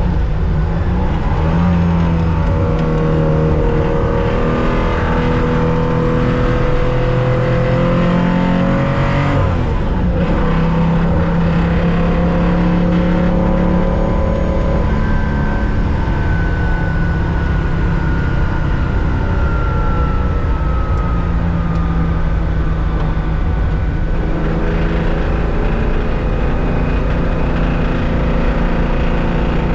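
In-car sound of a 1965 Porsche 911's air-cooled 2.0-litre flat-six at racing speed. Its pitch climbs for several seconds, drops sharply about nine seconds in, then pulls steadily again, with another change in the engine note later on.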